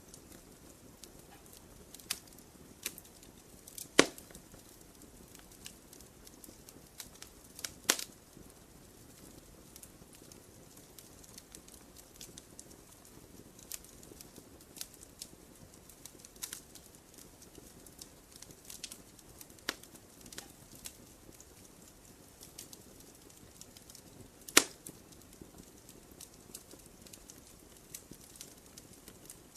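Campfire burning: wood crackling over a low hiss, with scattered small snaps and three loud pops, about four, eight and twenty-four seconds in.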